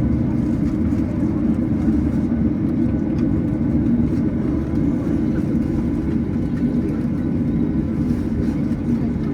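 Steady rumble inside the cabin of a Boeing 737-900ER on the ground, with its CFM56-7B turbofan engines running at idle during the engine-start phase. A lower hum drops away about a second in.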